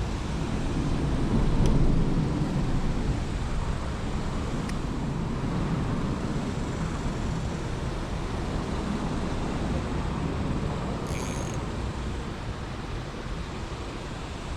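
Steady outdoor rumble and hiss, typical of road traffic beside an urban creek. It swells to a peak about two seconds in, as a vehicle might passing, then slowly eases off. A brief high chirp sounds near the end.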